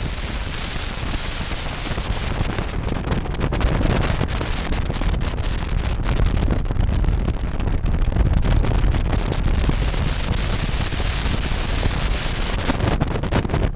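Wind rushing and buffeting over the microphone of a moving bike, with a steady low rumble underneath.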